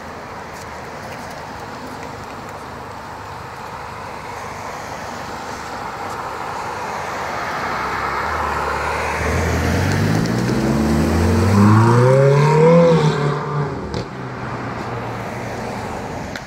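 Sports car engine idling low, then accelerating hard from about nine seconds in, its pitch climbing steeply to a loud peak a few seconds later before fading as the car pulls away.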